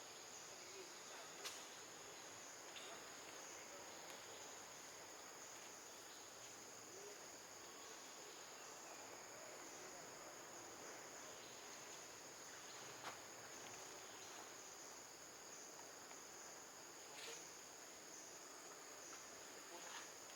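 Faint, steady high-pitched drone of an insect chorus, with a few soft clicks scattered through it.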